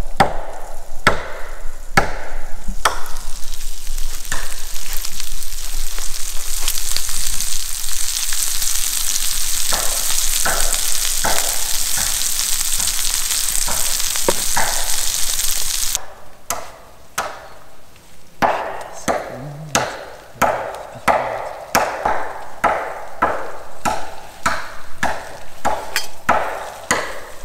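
Food sizzling loudly in a pan, with scattered clicks; the sizzle cuts off suddenly about two-thirds of the way through. After that comes a run of short, regular knocks and scrapes of a cooking utensil, about two a second.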